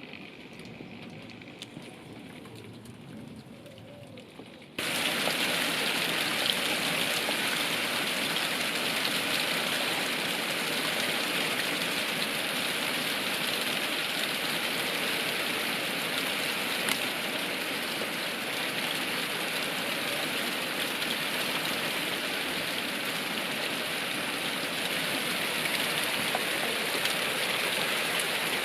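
Rain falling as a steady hiss. About five seconds in it abruptly becomes much louder and heavier, and stays that way.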